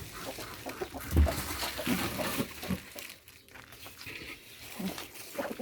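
Chickens clucking, with a few knocks and a low thump about a second in.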